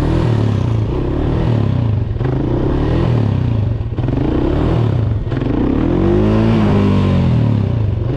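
Dirt bike engine revving, its pitch rising and falling every second or so, with a longer swell near the end.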